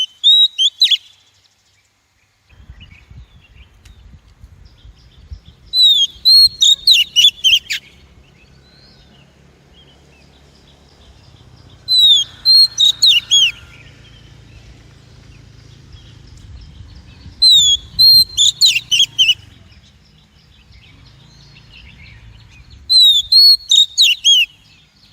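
Female Oriental magpie-robin calling, repeating a short burst of sharp, falling whistled notes about every five to six seconds. A faint low rumble runs underneath from a couple of seconds in.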